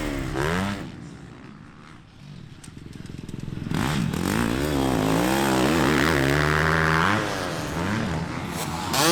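Motocross bike engines revving hard past the track side, pitch rising and falling with the throttle and gear changes. One bike fades away in the first couple of seconds, another comes up and runs flat out, backs off about seven seconds in, and a bike passes close near the end.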